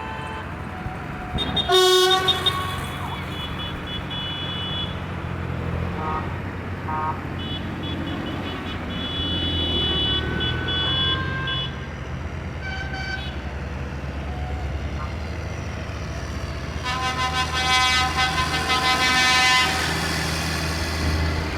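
Tractor engines running steadily as they pass, with vehicle horns tooting several times over them: a loud blast about two seconds in, softer toots midway, and a long loud horn near the end.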